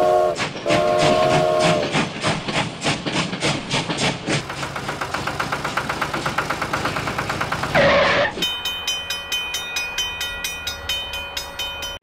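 Battery-powered toy steam locomotive's sound effects: a short and then a longer whistle toot, then a fast, even chugging clatter. About eight seconds in comes a sliding tone, and after it a tinny electronic melody of evenly beating notes.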